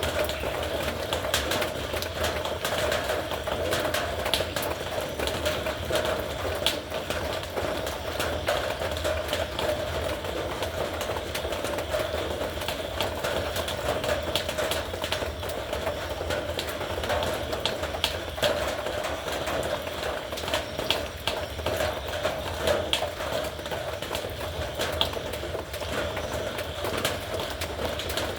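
Heavy rain falling steadily on a metal roof: a dense, even rush of rain with many sharp ticks of drops striking the metal.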